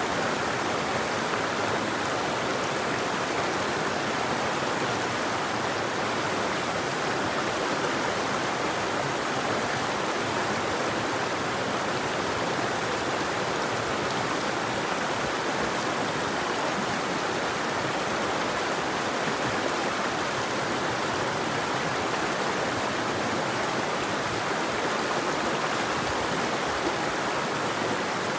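River water flowing over rocks: a steady, even rush of running water with no birds.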